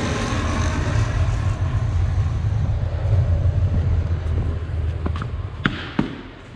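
Vehicle engine running, a steady low rumble that eases off near the end. Two sharp knocks come close together shortly before it quiets.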